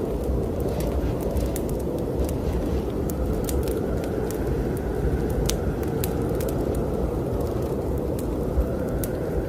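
Fireplace wood fire crackling, with scattered sharp pops, over the steady low rush of snowstorm wind that slowly swells and eases.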